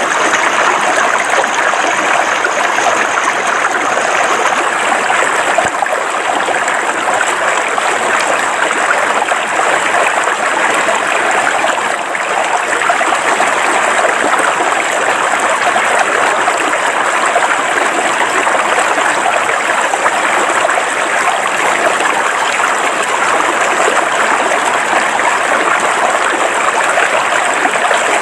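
River water flowing over rocks: a steady, even rush of a small stream running in riffles.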